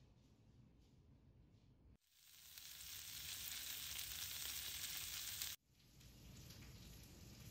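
Steak and sausages sizzling in a skillet. The hiss starts suddenly about two seconds in and cuts off sharply about two seconds before the end. Before and after it there is only a faint low hum.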